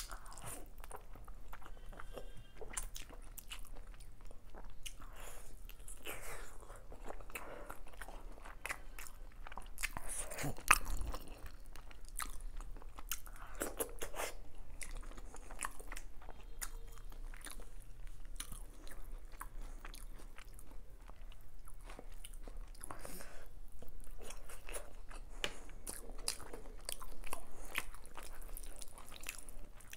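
Close-miked chewing and biting of a mouthful of chicken biryani eaten by hand, with many small wet mouth clicks and occasional crunches. One louder knock about eleven seconds in.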